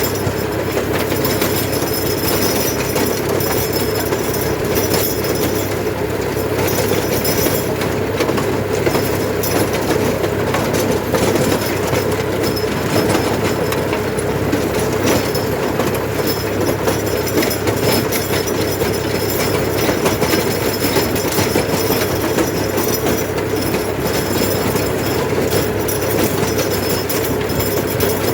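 Sonalika tractor's diesel engine running steadily, driving a Lancer rotary tiller, with a loud, even mechanical din from engine and tiller together.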